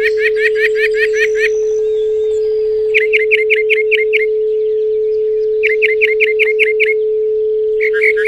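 A steady pure sine tone at 432 Hz drones throughout. Over it a songbird sings four quick phrases of about seven rapid, repeated notes each.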